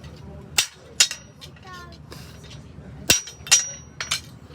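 Hammer blows on a hand-forged steel horseshoe at the anvil: about five sharp, irregularly spaced strikes, two of them leaving a brief high metallic ring.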